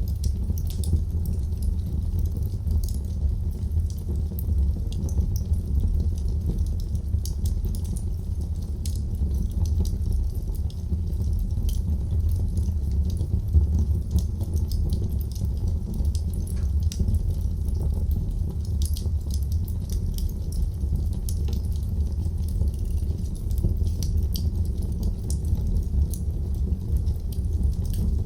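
Wood fire burning in a fireplace: a steady low rumble of the flames with frequent small, sharp crackles and pops at irregular intervals.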